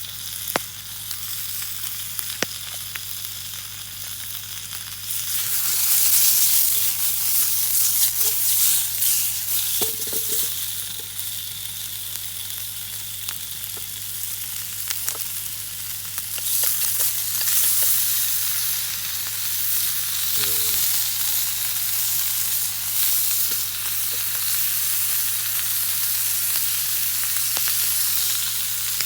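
Bacon and garlic frying in oil in a deep frying pan over a wood fire: a steady sizzle that grows louder about five seconds in, with scattered light clicks and pops.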